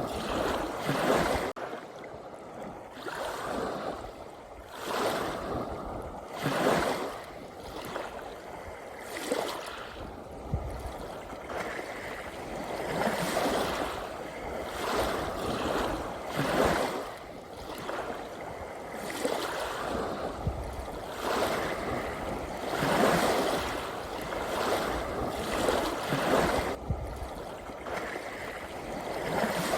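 Ocean waves washing in, swelling and fading every two to three seconds.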